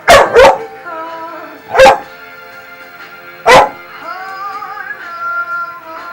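A dog barking excitedly at a hairdryer: two quick barks right at the start, then single barks about two seconds and three and a half seconds in. Music from a film soundtrack plays underneath.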